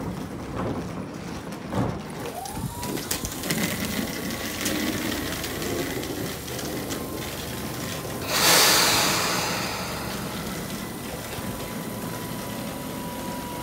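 Tobu 20400-series electric commuter train standing at a platform: its sliding doors shut with a few knocks in the first two seconds, a steady whine glides up and settles from the car's equipment, and about eight seconds in a loud burst of compressed-air hiss dies away over a couple of seconds.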